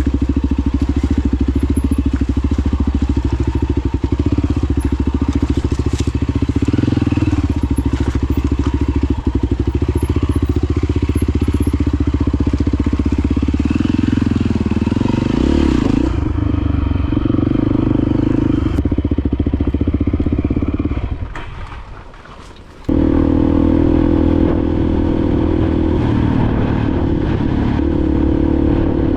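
Honda XR250 Baja dirt bike's single-cylinder four-stroke engine running while riding. The sound fades away about three-quarters of the way through, then cuts back in suddenly.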